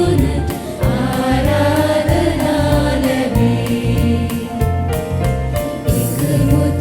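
Parish choir singing a Sinhala church song over musical accompaniment with a steady, pulsing bass beat.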